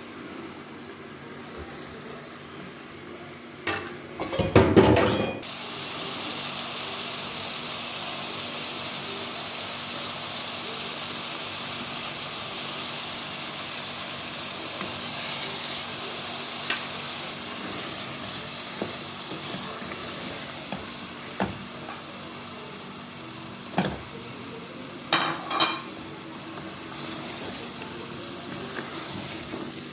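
Chicken pieces frying in a pot, a steady sizzle that sets in after a loud clatter of utensils about five seconds in. A spoon knocks and scrapes against the pot now and then, with a short clinking near the end.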